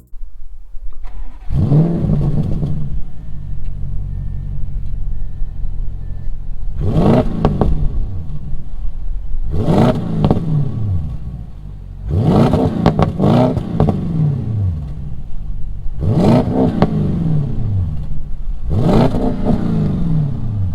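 A V8 engine idling and being blipped through the exhaust, about seven quick revs that climb and drop straight back to idle, two of them close together near the middle.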